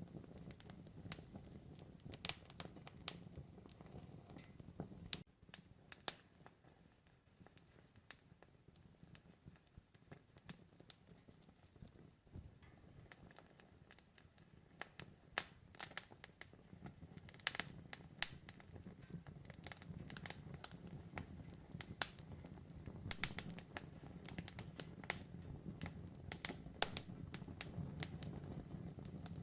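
Wood campfire crackling, with irregular sharp pops and snaps, some louder than others, over a low steady rumble of the burning fire.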